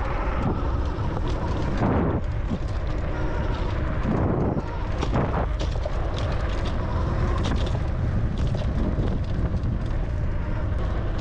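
Steady wind rumble on the microphone of a moving bicycle, with scattered short clicks and knocks from the bike.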